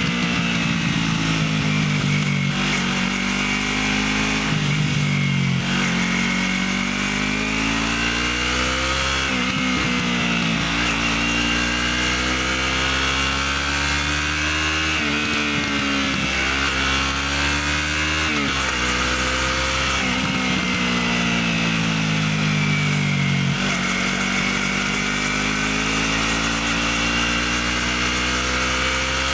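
Motorcycle engine through its stock exhaust, running continuously, its pitch rising and falling again and again as the throttle is opened and eased off.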